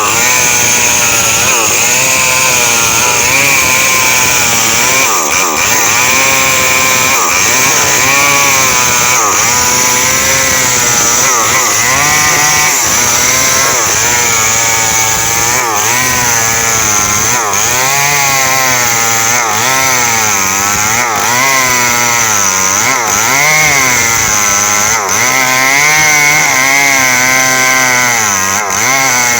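Small Stihl chainsaw cutting through coconut palm wood, its engine running at high revs with the pitch repeatedly dipping and recovering as the chain bites into the trunk.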